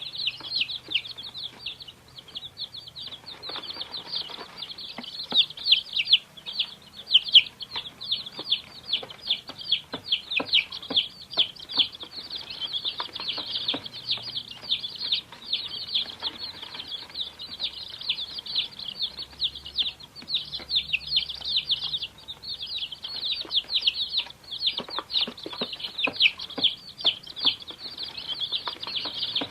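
A flock of baby chicks peeping continuously: many short, high-pitched cheeps that drop in pitch, overlapping with no break, with faint light clicks among them.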